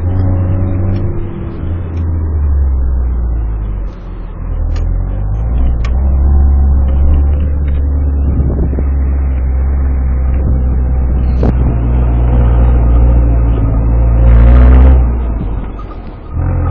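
Four-wheel-drive vehicle's engine pulling steadily in low-range third gear up a snowy trail, with a low drone that dips about four seconds in, swells louder around fourteen seconds, then falls away near the end. A few sharp knocks sound over it.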